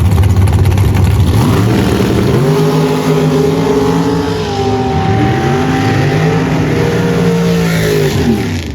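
Drag racing cars launching and running down the dragstrip. The engine note climbs, dips once about four and a half seconds in, climbs again, then falls away near the end.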